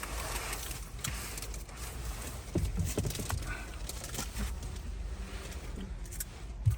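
Low, steady rumble inside the cabin of a Honda CR-V hybrid setting off, with a few light knocks and rustles.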